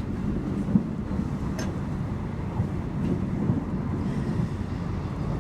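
Passenger coach of the Argo Bromo Anggrek express train running, heard from on board: a steady low rumble with a few light clicks and knocks.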